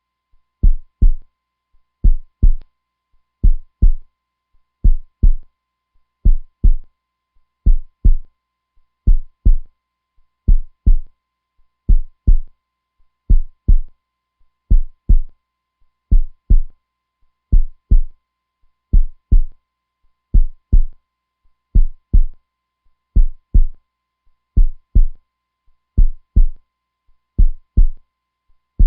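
Heartbeat: a slow, steady lub-dub, each beat a pair of deep thumps, repeating about every second and a half.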